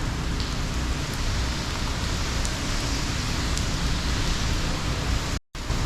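Hurricane wind and rain: a loud, steady rush of noise, heaviest in the low end. It drops out for an instant near the end.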